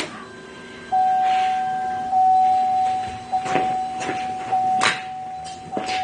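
A steady electronic warning tone comes on about a second in and holds at one pitch, with a few sharp clicks over it.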